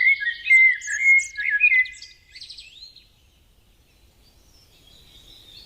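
Songbird singing a rapid, varied warbling phrase of chirps and trills, strongest in the first two seconds, thinning out after about three seconds into faint background.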